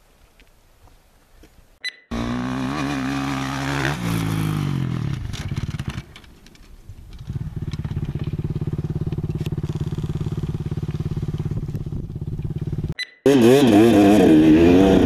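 Dirt bike engine heard in several abrupt cuts: revving and falling away, then running steadily, then revving louder with the pitch rising and falling near the end.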